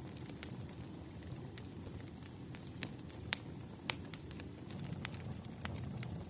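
Firewood burning: a low steady rumble of flames with scattered sharp crackles and pops, the two loudest a little after three seconds and near four seconds in.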